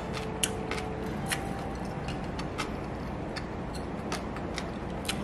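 Someone chewing a mouthful of crunchy oiji (Korean pickled cucumber): a handful of sharp, irregular crunches over a steady low hiss.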